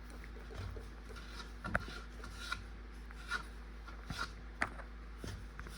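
Faint rubbing and scrubbing as dirt is wiped off a ceiling fan blade, with a scatter of small clicks and scrapes.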